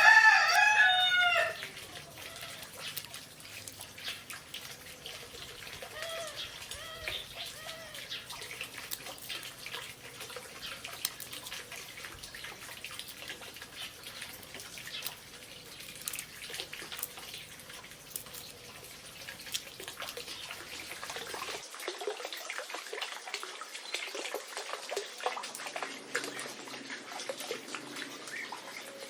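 A rooster crows once at the start, loud and drawn out, followed a few seconds later by a few softer chicken calls. The rest is a steady patter of small clicks with trickling water.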